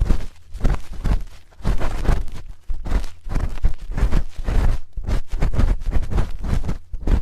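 A metal spoon scraping and rubbing close against the microphone in ASMR ear-cleaning style: quick, irregular scraping strokes, several a second, with low thumps of handling on the microphone.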